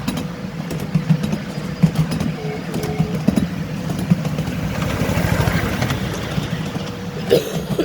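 Miniature railway train running, its engine giving a fast, low, even pulsing, with a few sharp clicks near the end.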